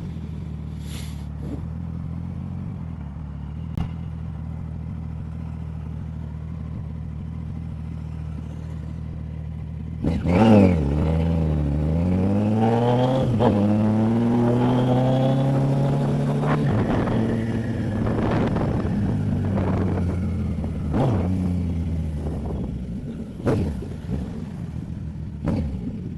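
Motorcycle engine with an aftermarket sport exhaust running steadily at low revs. About ten seconds in it accelerates hard, its pitch climbing, dropping at a gear change and climbing again. It eases off some six seconds later and settles back to a steady low run.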